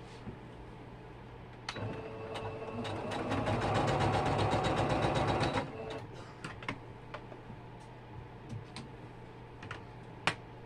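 Sewing machine stitching a run of about four seconds, its needle strokes fast and even, then stopping. A few light clicks follow, over a steady low hum.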